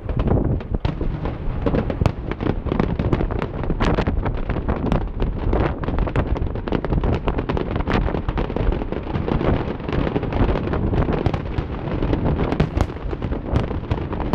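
Fireworks display in full barrage: aerial shells and low bursts going off in a dense run of bangs and crackles, several a second without a pause.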